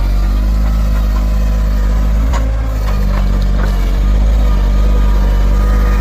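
Diesel engine of a forestry machine running steadily, with a few short clicks and knocks about halfway through.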